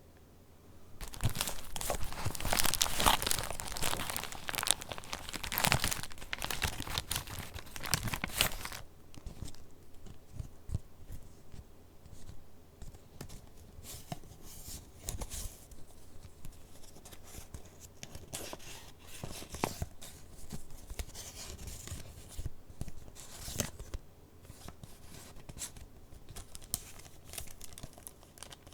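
Paper of a handmade junk journal being handled and its pages turned: loud, dense paper rustling starts about a second in and lasts for roughly eight seconds, then gives way to softer rustles and small taps.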